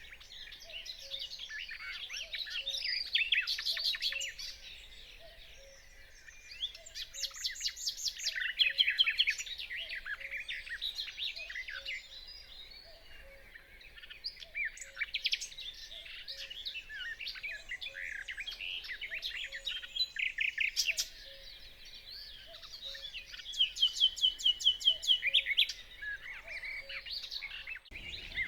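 Common nightingale singing: varied phrases of whistles, trills and fast repeated notes, with louder runs of rapid repeated notes about eight seconds in and again near the end.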